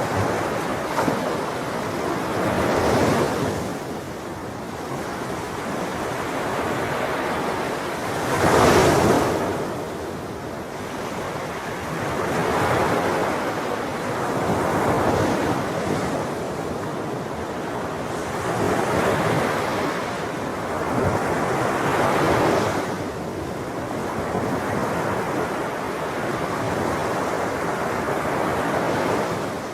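Ocean surf: waves breaking and washing in as a continuous rush that swells and ebbs every few seconds, the biggest surge about nine seconds in.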